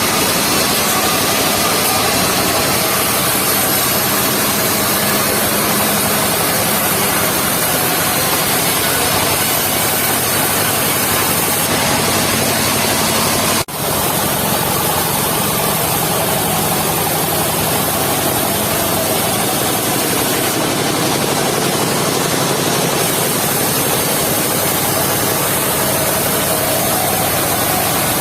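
Mobile sawmill's engine and saw running steadily and loudly, with a very brief drop about halfway through.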